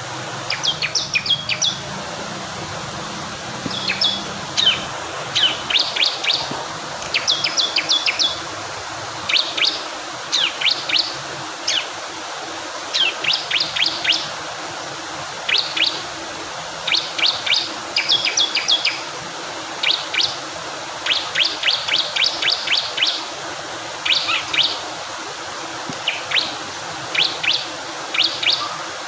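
Bar-winged prinia (ciblek kristal) singing in rapid clusters of short, sharp, high notes, a cluster every second or so, over a steady rush of flowing water.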